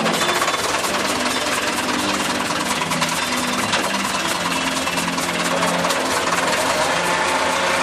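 Massey Ferguson 275 tractor's diesel engine running steadily, with an even diesel clatter.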